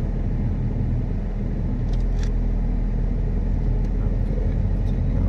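A 2006 Suzuki Forenza's four-cylinder engine idles steadily at about 1000 rpm with the car standing still, heard from inside the cabin as a low, even hum.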